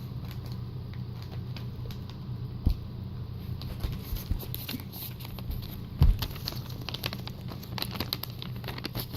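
Sealed packaging being crinkled, torn and handled as items are worked out of it: scattered crackles and clicks, with two louder knocks, one about three seconds in and one about six seconds in.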